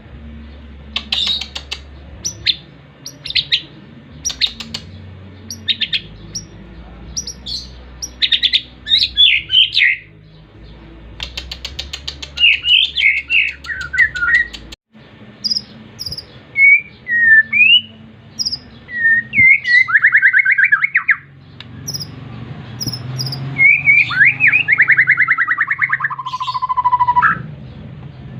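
A pet songbird singing in full, energetic voice: bursts of quick chirps, trills and sweeping whistled phrases with short gaps between them, the bird coming into form ('gacor').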